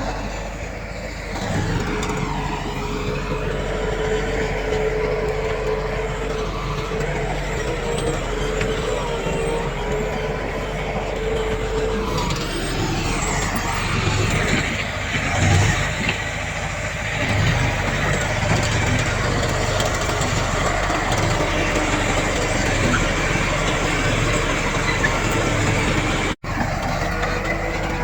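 Diesel engines of heavy earthmoving machinery (bulldozer and dump trucks) running under load: a steady drone with a held whine over it. It cuts out for an instant near the end.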